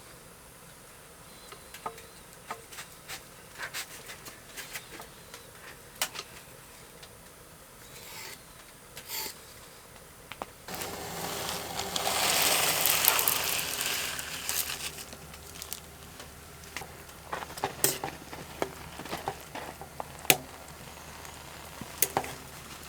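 Camp cooking gear handled: scattered clicks and knocks, with a loud hiss lasting a few seconds about midway over a low steady hum.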